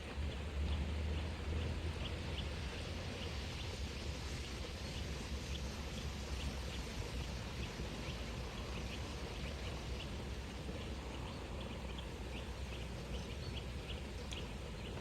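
Outdoor ambience: a run of short, high bird call notes, about two or three a second, over a steady low rumble.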